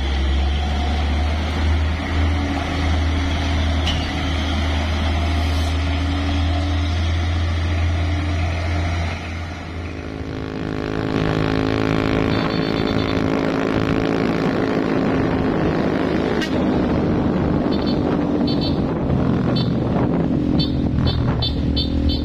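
Heavy truck diesel engine running with a deep low rumble, then revving up from about ten seconds in, its note rising.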